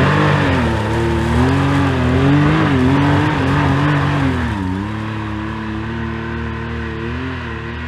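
Side-by-side UTV engine revving on a steep trail climb, its pitch rising and falling with the throttle, easing off somewhat about halfway through.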